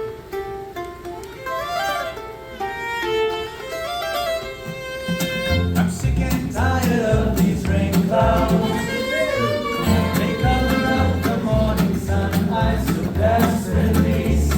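Folk string band playing an instrumental passage live: light plucked string notes at first, then about five seconds in a bass line and a bowed fiddle melody come in and the sound fills out.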